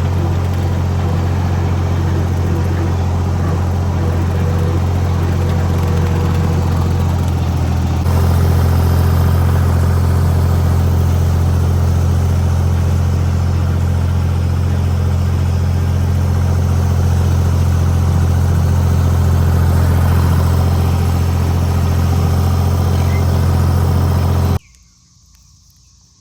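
Tractor engine running steadily, a step louder about eight seconds in, then stopping abruptly near the end.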